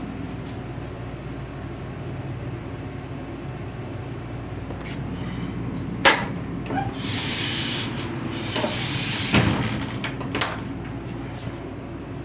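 Steady low rumble of an M7 electric railcar in motion. About six seconds in comes a sharp click, then a hiss lasting about two and a half seconds that ends in a thump, followed by a few lighter clicks.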